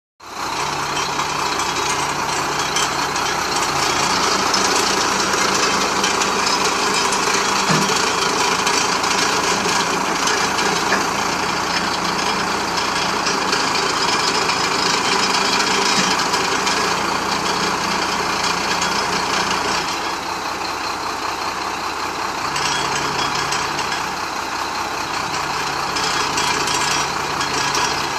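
A Chenglong crane truck's diesel engine running steadily, its hum dipping lower at about two-thirds of the way in and rising again a little later.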